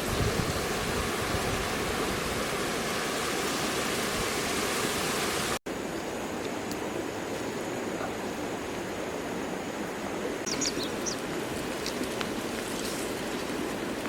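Steady rushing water noise, like a stream or waterfall. It cuts out for an instant about five and a half seconds in and comes back quieter, with a thin high steady tone and a few short high chirps after about ten seconds.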